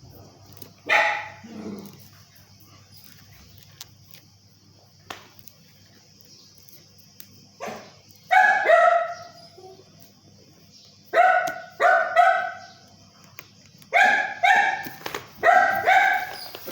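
A dog barking in short bursts, mostly two barks at a time, once near the start and then repeatedly through the second half. A faint steady hum and high hiss run underneath.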